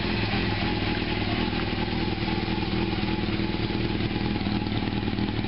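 1987 Honda CBR600F Hurricane's inline-four engine idling steadily, running on all four cylinders on new spark plugs.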